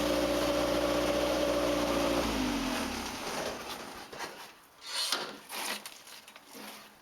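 Homebuilt compact tractor's engine running steadily, then shut off about two seconds in, its note sagging as it winds down and stops. A few scattered crunching, scraping noises follow.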